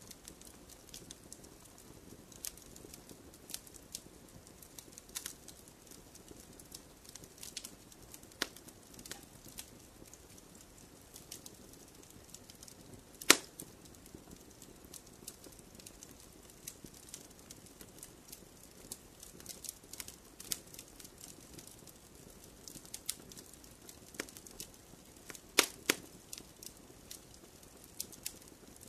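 Wood logs burning in a fireplace: irregular crackles and pops over a soft low hiss, with sharp louder snaps about halfway through and again near the end.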